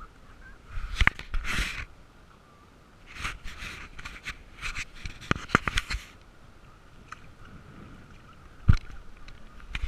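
Kayak paddling: irregular splashes of water and sharp knocks, one loudest near the end, over a faint steady high hum.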